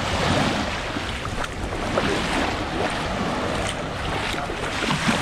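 Small sea waves washing onto a stony, pebbly shore, with wind buffeting the microphone.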